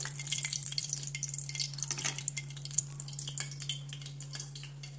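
Pot of dal tadka simmering on the stove, with a wet crackling and popping of small bubbles that eases toward the end, over a steady low hum.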